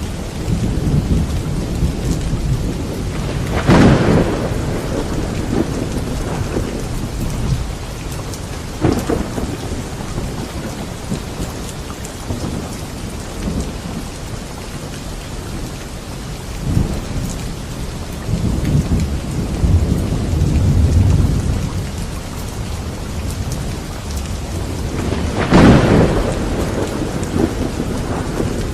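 Thunderstorm: steady heavy rain with rolling low thunder, sharp claps of thunder about four seconds in and near the end, a smaller one about nine seconds in, and a long low rumble in the middle.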